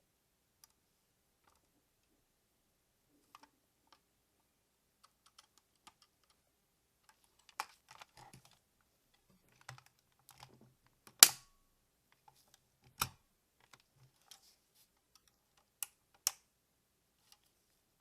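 Hard plastic toy parts clicking and snapping as a DX Jumbo Whale robot toy is handled: scattered light clicks with a few sharp snaps, the loudest about eleven seconds in.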